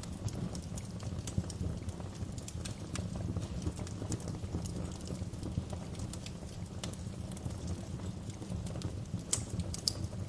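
Wood fire crackling: a steady low rumble of burning with frequent irregular sharp crackles and a couple of louder pops near the end.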